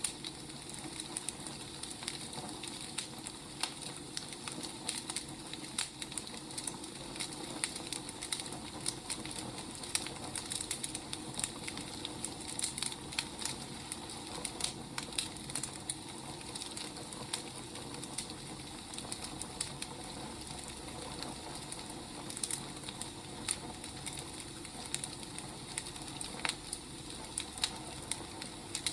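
Firewood burning: a steady low hiss with irregular crackles and pops from the logs.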